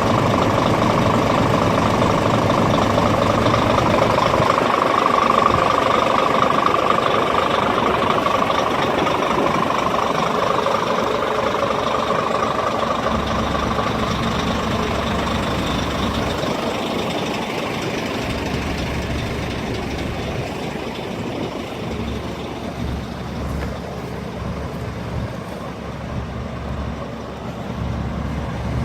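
Scania G400 8x4 tipper truck's diesel engine running, with a steady whining tone that drifts slightly in pitch in the first half; the sound grows gradually quieter over the second half.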